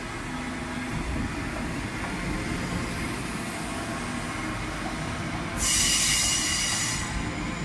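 Queensland Rail electric suburban train rolling along the rails with a steady rumble. About five and a half seconds in, a loud high-pitched wheel squeal of several shrill tones cuts in and lasts about a second and a half.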